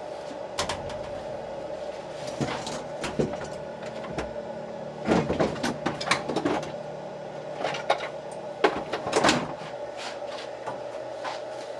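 Tools and parts being handled and set down: scattered knocks and clicks, a few louder clusters of clatter, over a steady faint hum.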